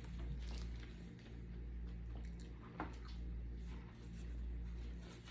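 Wet chewing and mouth sounds of someone eating, over a steady low hum, with one sharper click about halfway through.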